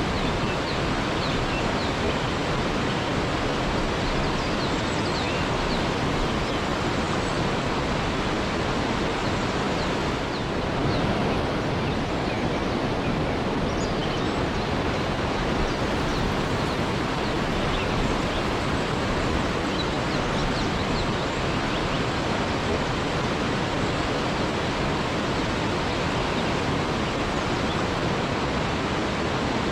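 Waterfall rushing steadily, an unbroken wash of falling water with no pauses or changes.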